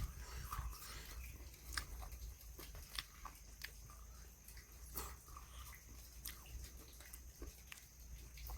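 Faint chewing and biting while eating pepper chicken fry, with scattered small crunches and clicks.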